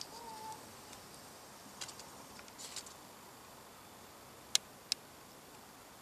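Faint outdoor background with a short whistled bird note right at the start and a few faint high chirps. Two sharp clicks about half a second apart near the end are the loudest sounds.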